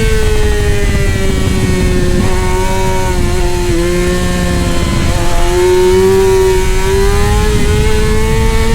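Middleweight superbike engine running at high revs: its note sags gently over the first few seconds, then climbs steadily as the bike accelerates, with a rough rushing noise beneath it.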